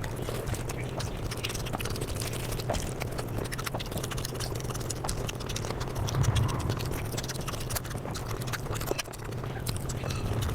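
Eating sounds sped up about fivefold: a dense run of quick, clicky chewing and mouth smacks, with a steady low hum underneath.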